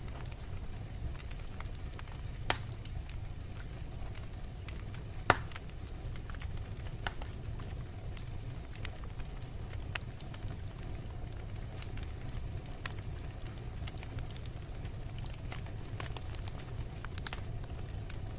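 Log fire burning in a fireplace: a steady low rumble with scattered crackles throughout, and two sharper pops in the first third.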